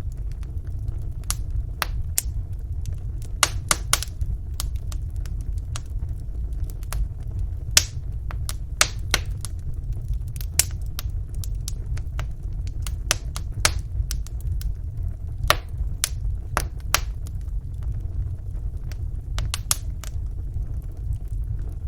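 Wood fire burning in a fireplace: a steady low rumble with irregular sharp crackles and pops of burning logs, some coming in quick clusters.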